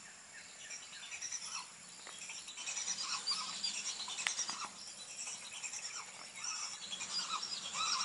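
Many birds chirping and calling in a marsh, with a faint steady high insect buzz underneath.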